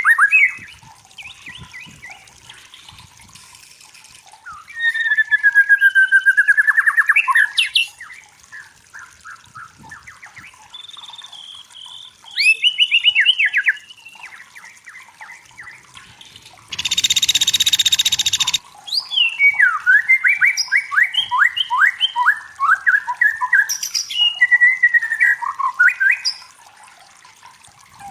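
Songbird singing in loud, varied phrases of fast trills and sliding whistles, with short pauses between phrases. About two-thirds of the way through comes a harsh, rasping burst that lasts about a second and a half.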